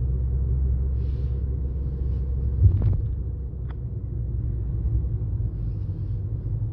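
A car driving, with a steady low rumble of engine and road noise. There is a single knock about three seconds in and a faint click about a second later.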